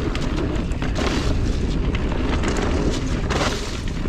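Wind buffeting the microphone over the rumble and rattle of a mountain bike rolling over rough trail, with many small sharp clicks and knocks.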